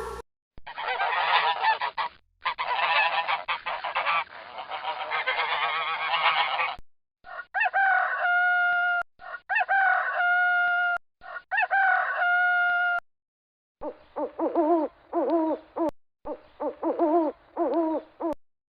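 Recorded bird calls played in three short clips: first a dense flock chorus, then three long steady calls of about a second each, then a run of short, quickly repeated calls.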